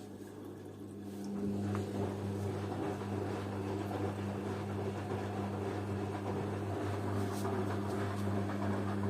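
Washing machine running during a wash of blankets and bed linen: a steady motor hum with swishing noise over it, which swells about a second and a half in and then holds steady.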